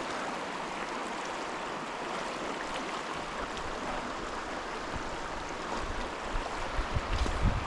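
Steady rushing of river water flowing over the stream bed. From a little past halfway, low irregular thumps and rumbles join it.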